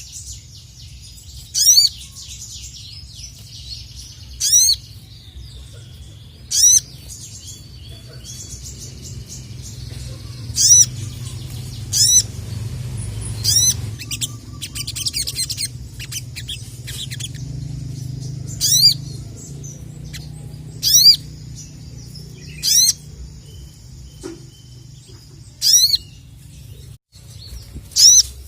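Sogok ontong (sogon) sunbird singing hard: a loud, short, piercing high call about every two seconds over softer continuous twittering, with a low steady hum beneath.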